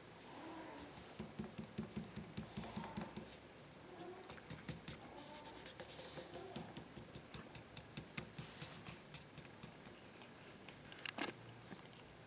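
Light scratching and tapping, with a quick run of soft taps early on and one sharper knock near the end.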